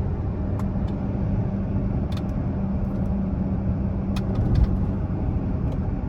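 Dodge Charger V6 cruising, heard inside the cabin: a steady engine drone over road noise, with a few light ticks scattered through it.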